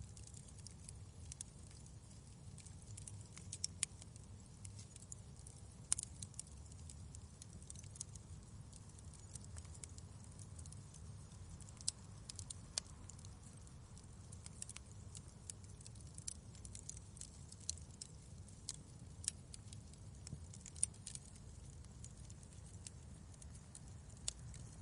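Wood fire in a fireplace crackling: irregular sharp pops and snaps, a few louder ones among many small ticks, over a steady low rumble.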